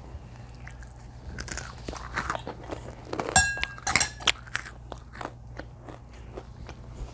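Close-up chewing and crunching of food, with many small wet clicks. A louder run of crackly sounds comes just before the middle.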